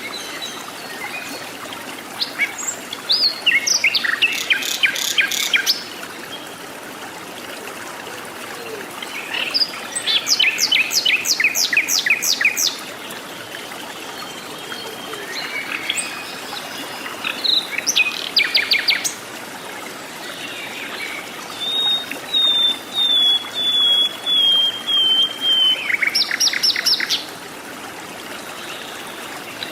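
Wild forest birds singing: several bursts of rapid, buzzy trills a few seconds apart, and, about two-thirds of the way in, a slow run of eight or nine clear whistled notes that step gently downward in pitch. A steady soft hiss lies underneath.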